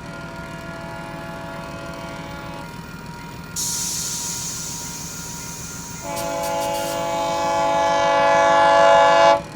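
GO Transit commuter train's multi-note air horn sounding two long blasts for the level crossing: a fainter one, then a louder one that grows as the train approaches and cuts off sharply near the end. Between the blasts there is a burst of hiss.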